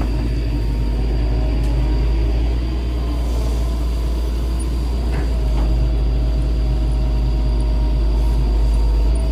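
Excavator's diesel engine running steadily under load, a deep continuous rumble with a faint steady whine above it.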